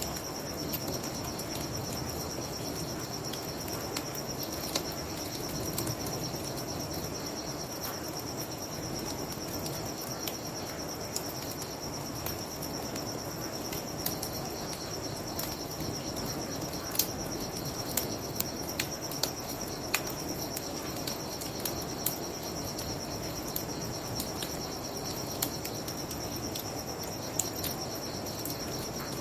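Crickets chirping in a steady, unbroken band of sound over a bonfire crackling, with sharp pops of burning wood scattered irregularly, and a low steady rush of river water beneath.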